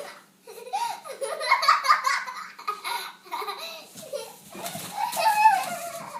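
A young child laughing and giggling in bursts, loudest about two seconds in and again near the end.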